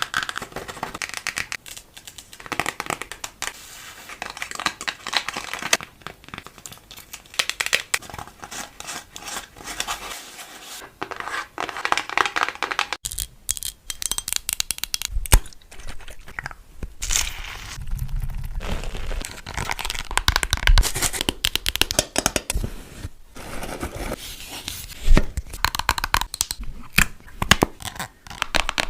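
Close-up crinkling, tearing and scratching of something being handled, in quick irregular strokes and clicks.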